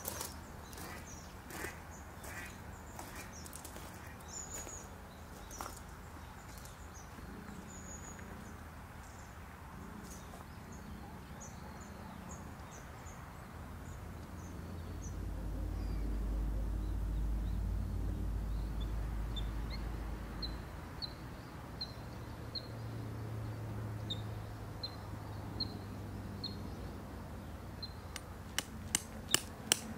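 Birds calling with short high chirps, in the second half a steady series of brief notes repeated every second or so. A low rumble swells in the middle. Near the end a hammer starts striking a tent peg in quick sharp blows.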